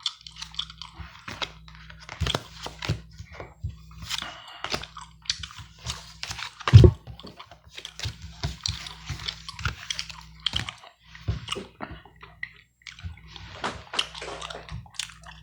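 Close-miked gum chewing: irregular wet clicks, smacks and crackles, over a steady low hum. One heavy thump about seven seconds in.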